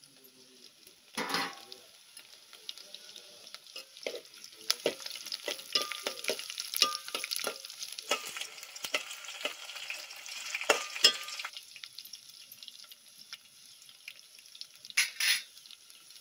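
Garlic frying in hot oil in a pot on a wood-fired chulha, sizzling, with a spoon clicking and scraping against the pot as it is stirred. The sizzle grows louder about four seconds in and drops back at about eleven seconds, with a louder scrape about a second in and another near the end.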